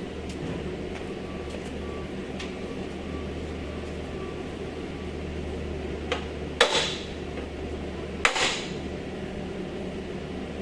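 Three sharp knocks of a hand tool on car body parts: a light tap, then two louder clanks a second and a half apart, each with a brief ring. A steady low machine hum runs underneath.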